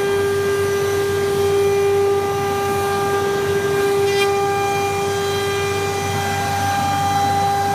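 Spindle of a CNC nesting router running with a steady high whine over a constant rush of noise, with one short tick about four seconds in.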